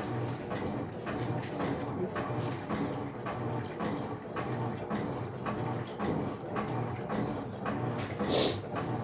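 Electrolux LF75 top-loading washing machine agitating a load, its motor hum swelling and fading about once a second with water and clothes sloshing. A brief, sharper, higher-pitched sound stands out near the end.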